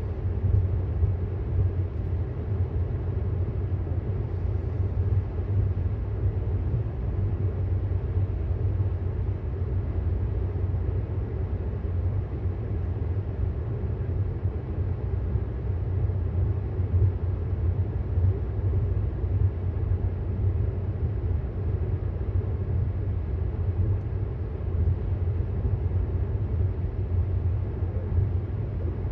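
Steady road and tyre rumble heard inside the cabin of a 2018 Tesla Model S 75D cruising at highway speed.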